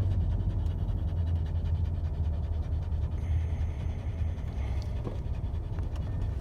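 Panting after a walk in hot weather, over a steady low rumble.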